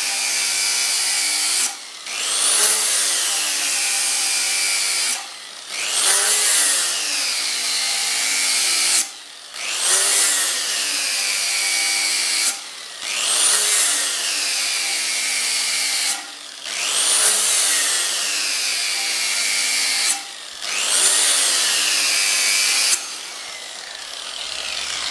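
Angle grinder with a fibre sanding disc grinding the cutting edge of a steel lawn mower blade. It works in repeated passes of about 3–4 seconds with short breaks between them, and the motor's pitch bends as each pass begins and then settles.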